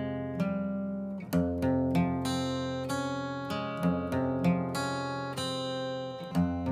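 Background music: acoustic guitar playing picked notes in a steady rhythm over held chords that change every second or few.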